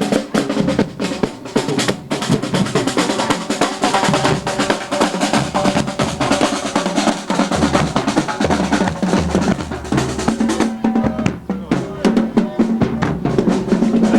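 Parade drums playing a steady marching beat, snare and bass drum, with held instrument notes joining about two-thirds of the way through.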